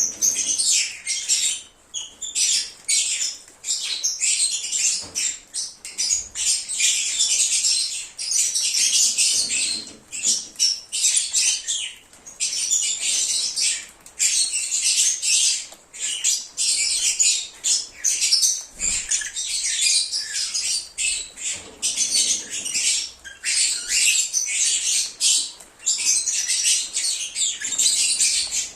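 A flock of lovebirds chattering, with rapid high-pitched chirps and squawks running almost without pause.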